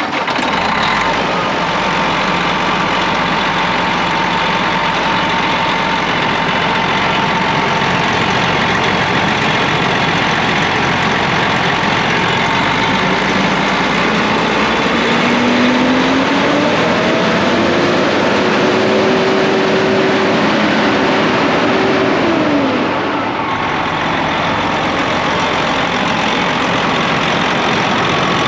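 Detroit diesel engine of a 2007 Freightliner tandem axle day cab running steadily, revved up a little before halfway, held at the higher speed for several seconds, then let back down to idle near the end.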